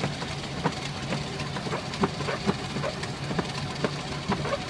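Cockpit noise of a Boeing 737-500 taxiing: a steady low hum of the engines at idle, with light knocks about twice a second from the aircraft rolling over the taxiway.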